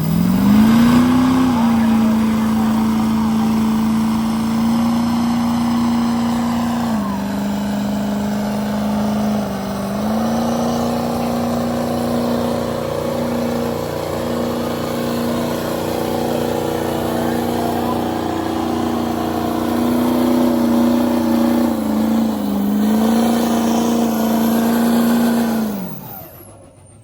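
Truck engine held at high revs in a burnout: one steady, loud note that climbs at the start and stays up for about 25 seconds. It sags briefly twice, then drops away quickly near the end as the throttle is let off.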